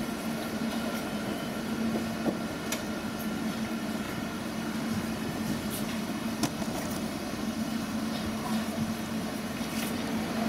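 Steady hum of a red double-deck regional train standing at the platform, its blowers and air conditioning running, with a few short clicks from passengers moving past.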